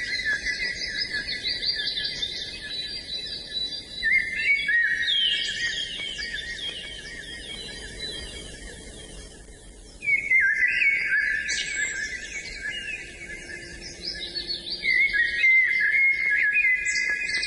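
Songbird singing long, rapid, twittering phrases of chirps and trills, a new phrase bursting in every few seconds, with a quieter stretch in the middle.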